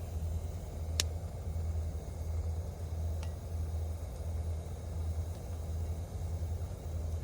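A steady low rumble with a sharp click about a second in and a fainter click about three seconds in.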